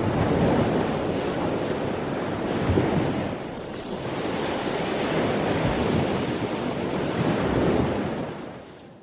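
Strong wind buffeting the microphone over rushing sea waves, fading out near the end.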